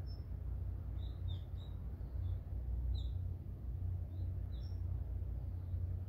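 Small birds chirping in woodland: short, high chirps scattered through, about a dozen, over a steady low rumble.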